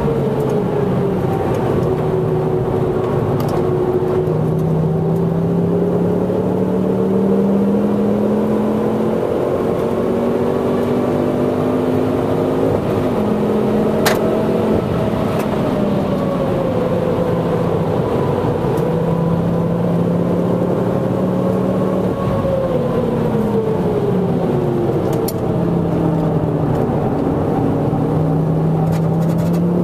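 Mk2 Ford Focus ST's turbocharged 2.5-litre five-cylinder engine heard from inside the cabin at track speed, its pitch climbing and falling as the throttle opens and closes. A single sharp click about halfway through.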